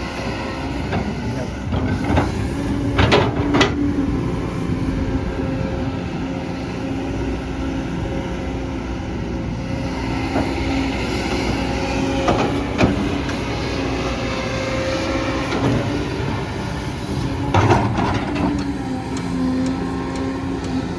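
Hydraulic excavator digging, its diesel engine running steadily under load. A few sharp knocks, twice a few seconds in, once near the middle and once near the end, fit the bucket striking soil and rock.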